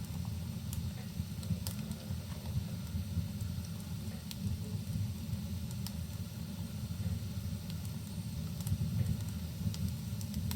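Wood fire crackling, with a few sharp pops scattered through it, over a steady low rumble and hiss of rain.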